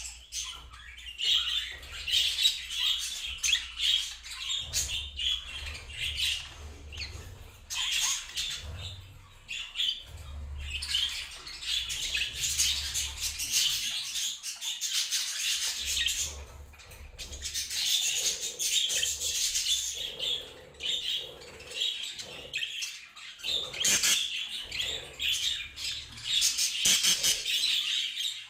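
A flock of budgerigars chattering continuously, a dense mix of warbling chirps and sharp squawks, with a low rumble coming and going underneath.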